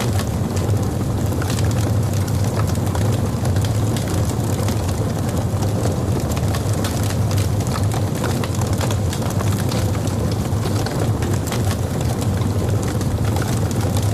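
Logs burning in a fireplace: a steady low rumble of flame with frequent, irregular sharp crackles and pops.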